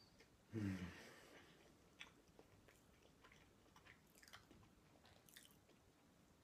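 Faint chewing of cheese: soft mouth clicks and smacks, with one brief low vocal sound from the eater about half a second in.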